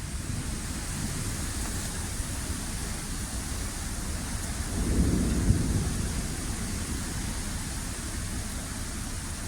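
Severe thunderstorm: very heavy rain and strong wind, making a steady rushing noise with a low rumble that swells louder about five seconds in and then eases.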